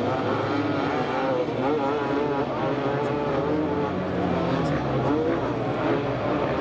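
Dirt bike engines revving unevenly, with people's voices mixed in.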